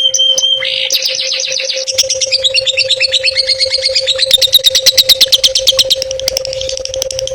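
Songbird singing a bird-song tutor (masteran) track of the kind used to train competition long-tailed shrikes: quick high chirps, then a fast trill of rapidly repeated notes from about two seconds in that eases off near the end. A steady low hum runs underneath.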